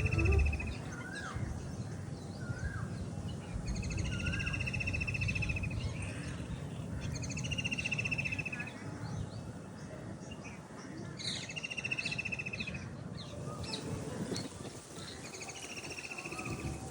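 Park birds singing and calling. One bird repeats a trilled phrase about a second long roughly every three to four seconds, and another gives short rising notes, over a steady low background rumble.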